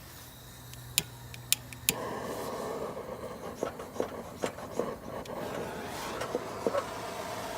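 Wooden beehive parts being handled, with three sharp clicks and knocks as the hive is opened. Then the steady hum of the honeybee colony, with scattered clicks and scrapes of boxes and frames being moved.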